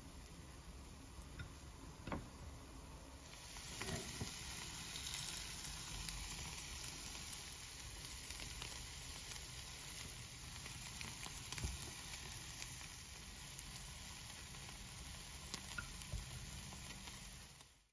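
Zucchini-carrot patties sizzling in hot oil in a nonstick frying pan, with a few light clicks of the spatula against the pan. The sizzle gets louder about three seconds in, as fresh raw patties go into the pan.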